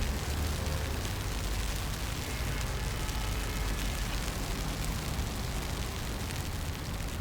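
Rainy street ambience: a steady hiss of falling rain with a constant low rumble beneath it.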